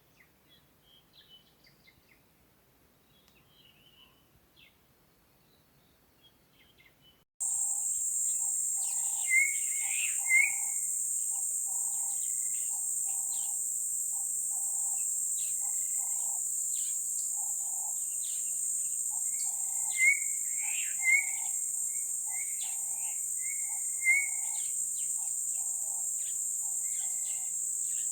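Bush ambience with faint scattered bird chirps. About seven seconds in, a loud steady high insect drone starts abruptly. With it come a repeated lower call, a little more than once a second, and sharp whistled bird notes.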